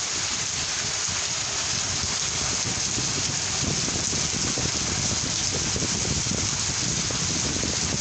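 Steady rain from a kalbaishakhi (nor'wester) storm, an even hiss of falling rain with drops pattering on surfaces.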